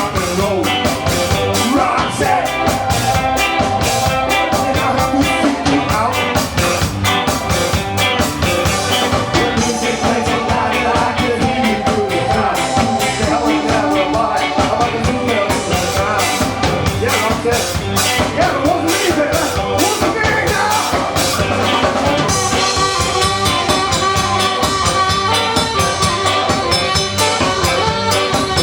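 Ska band playing live: a full band with a steady, dense beat and singing.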